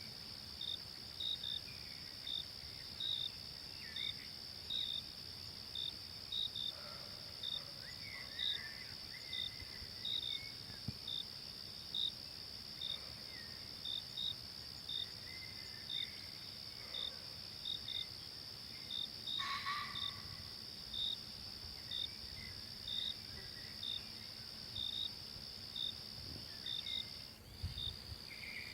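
Insects in a forest, crickets or similar: a steady high drone with a regular chirp about twice a second. Scattered short bird calls come in, and the drone drops out briefly near the end.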